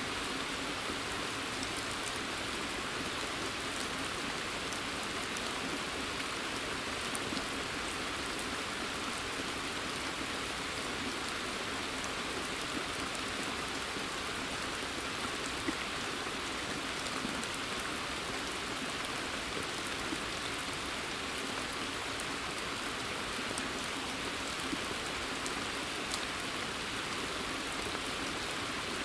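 Steady rain falling on a pond's surface and the surrounding forest: an even hiss, with scattered individual drops ticking through it.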